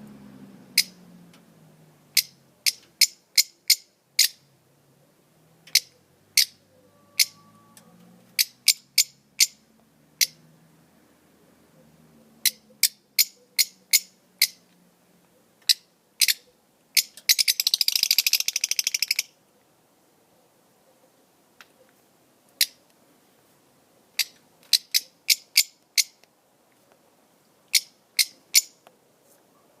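Small songbirds chirping: sharp, short chirps in quick clusters, with a fast trill lasting about two seconds just past the middle.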